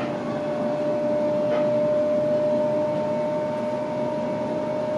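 Interior of an electric suburban passenger train running steadily: a constant rumble of wheels on track with a steady whine from the drive.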